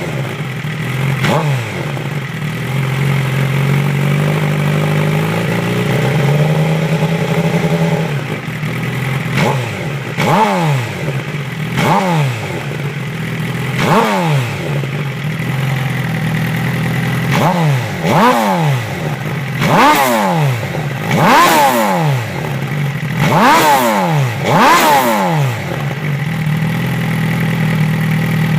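Engine fitted with a TaylorMade aftermarket exhaust, idling and revved in repeated short throttle blips, each snapping up and falling back to idle, about every one to two seconds. Around four to eight seconds in, the revs are held higher for a few seconds instead.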